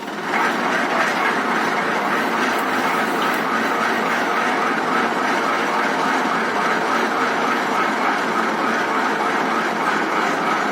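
Tractor engine running the bore well lifting machine, coming in loud about a third of a second in and then running steadily.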